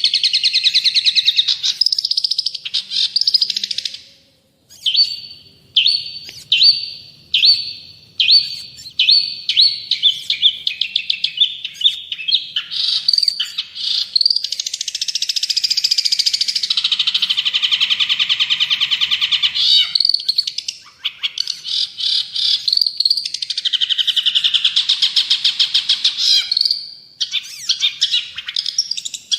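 Long-tailed shrike (cendet) singing in full voice: a varied, fast chattering song of quickly repeated notes, with a run of separate sharp notes repeated about one and a half times a second between about five and twelve seconds in.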